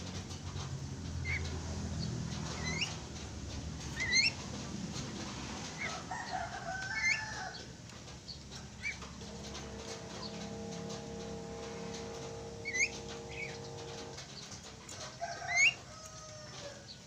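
Javan mynas calling: short sharp rising whistled notes repeated every second or two, with a couple of harsher calls in between. A steady droning tone sounds for about four seconds in the middle.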